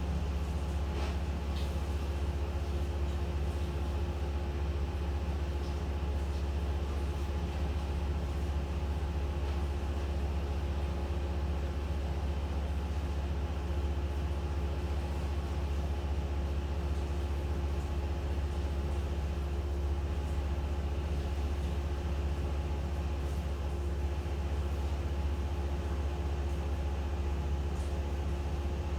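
An engine running steadily at a constant speed, a low drone with a steady hum over it.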